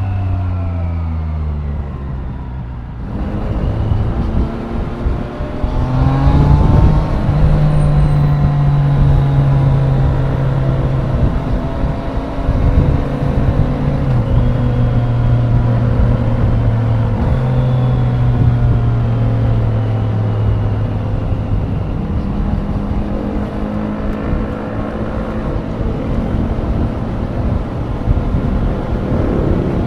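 Triumph Daytona 660's three-cylinder engine heard from the rider's seat, with wind buffeting on the microphone. The engine falls in pitch and eases off at first, then revs up strongly about six seconds in and settles into steady running, its pitch stepping between gears several times.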